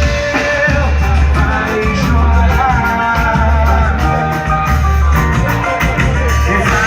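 Live pagode samba band playing, with a singer over a steady, pulsing bass line.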